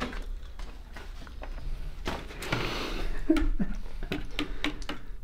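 Eating sounds: a soy-sauce-dipped French fry being chewed, with scattered small clicks and taps as another fry is dipped into soy sauce in a paper bowl.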